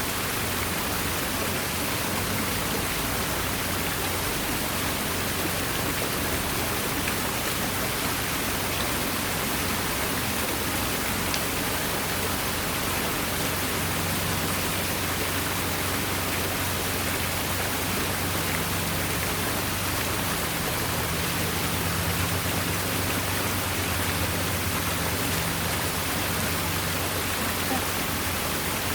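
Water pouring over an artificial rock waterfall: a steady rushing splash, with a faint low hum joining about halfway through.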